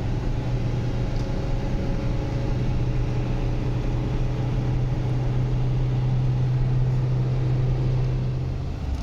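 Motor vehicle engine running at a steady pitch, its low hum holding level and then easing off shortly before the end.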